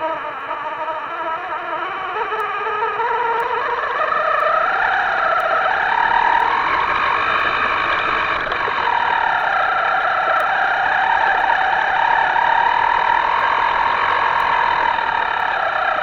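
Small electric motor of a radio-controlled boat, whining steadily. Its pitch rises and falls slowly several times as the throttle changes.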